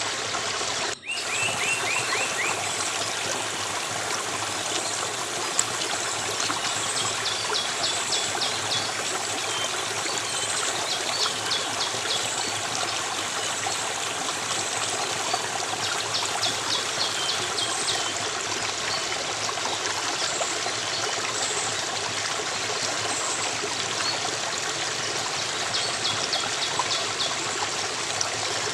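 Water in a small stream running and trickling steadily, with faint high, quick chirping trills of small birds over it now and then. The sound drops out for an instant about a second in.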